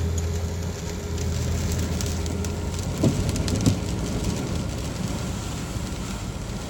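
A car rolling slowly, heard from inside the cabin: a steady low engine and road hum with scattered light crackling, and two soft thumps about three seconds in.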